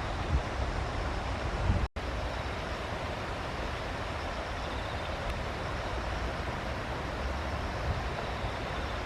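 Steady outdoor background noise with a low rumble throughout, broken by a brief dropout about two seconds in where the recording cuts.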